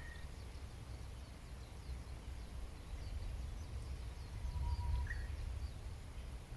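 Wild birds calling: many faint, quick high chirps and a few short whistled notes, over a steady low rumble.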